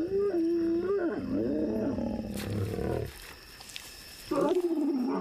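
Lions growling during mating courtship: a long wavering, moaning growl that turns rough and rasping until about three seconds in, then after a short lull another wavering growl starts near the end.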